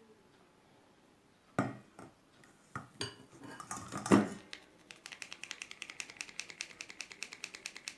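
Sieve of flour knocking against a bowl a few times, with a loud clatter about four seconds in, then tapped rapidly to sift the flour through: a steady run of light ticks, about eight a second.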